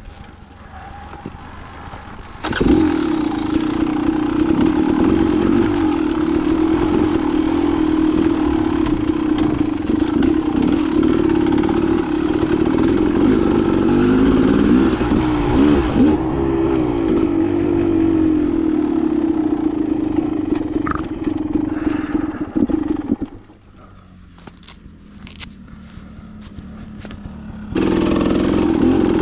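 Dirt bike engine that comes in loud and sudden a couple of seconds in and runs at a steady pitch, wavering briefly midway. It drops away about three-quarters through and comes back loud near the end.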